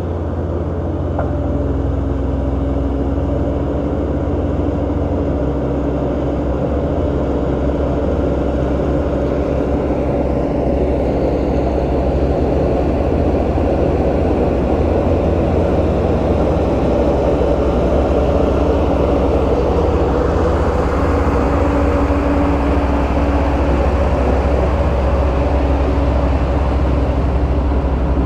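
Diesel engine of a heavy earthmoving machine (bulldozer or excavator) running steadily, a continuous deep rumble with a steady hum, a little louder in the second half.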